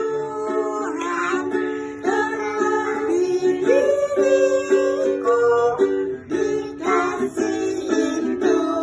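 Ukulele strummed in chords, with a child singing along.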